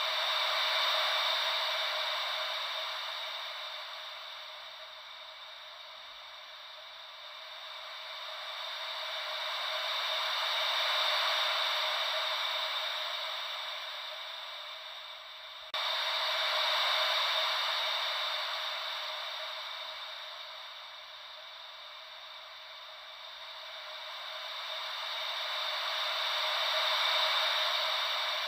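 Gentle ocean-wave white noise: a thin hiss with no low rumble, swelling and fading slowly about every ten seconds like waves washing in and out. It jumps up suddenly in level about halfway through.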